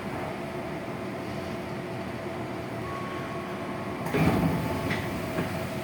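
Inside a Tokyo Metro 6000 series electric train car: the train's equipment hums steadily, a thin high tone comes in about three seconds in, and a loud thump sounds about four seconds in, followed by a couple of lighter knocks.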